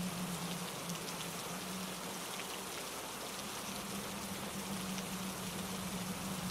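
Steady rain falling through trees: an even hiss with scattered small drop ticks, over a low steady hum that fades for a couple of seconds and then returns.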